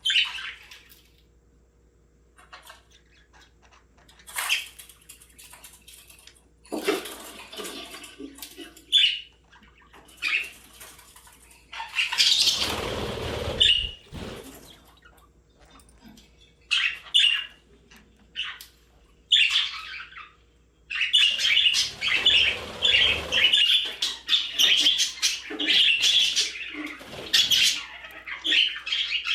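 Budgerigars chirping and chattering: scattered short chirps at first, becoming a continuous warbling chatter in the last third, with a couple of louder rustling bursts in between.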